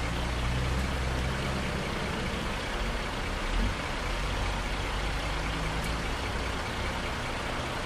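A truck engine idling steadily, with a short low thump about three and a half seconds in.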